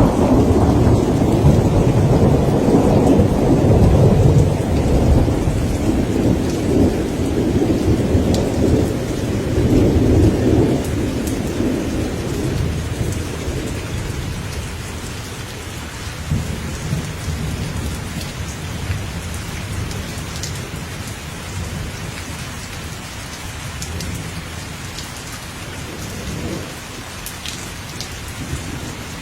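Thunderstorm: steady rain falling with a long rolling thunder rumble that fades away about halfway through, leaving the rain and a few sharp drips.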